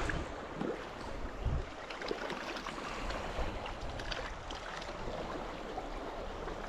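Small shallow stream running, a steady rushing of water with faint ticks, and a low wind bump on the microphone about a second and a half in.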